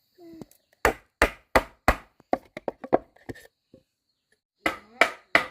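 Blade chopping into wood in repeated strokes: four hard blows about a third of a second apart, a run of lighter taps, then three more hard blows near the end.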